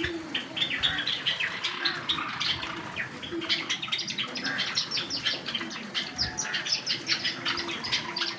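A colony of Java sparrows chirping all at once, a dense, unbroken stream of short high chirps from many birds.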